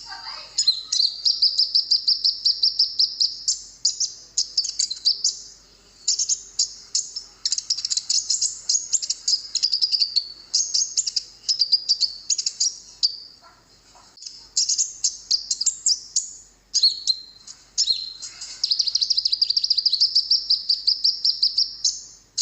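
Konin (kolibri ninja) sunbird song: high, fast twittering trills and chirps in phrases of a few seconds each, broken by short pauses.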